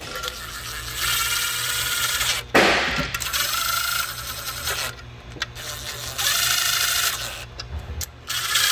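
Cordless power tool running in four short bursts of whirring, each a second or two long, as bolts are run down. There is a sharp clunk about two and a half seconds in.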